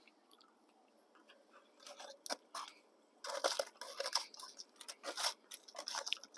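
Crinkling, rustling and clicking of the cooked potatoes and onions being handled, a run of short noises that gets busier from about three seconds in.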